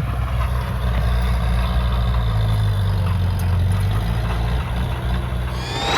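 Heavy diesel engine of an earthmoving machine running steadily with a low, even drone.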